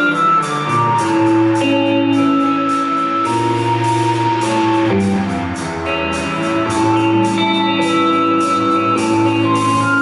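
Rock band playing an instrumental passage live: guitar and sustained chords over a steady beat.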